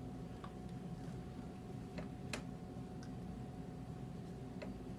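A few faint, isolated clicks of a computer mouse, irregularly spaced, over a low steady room hum.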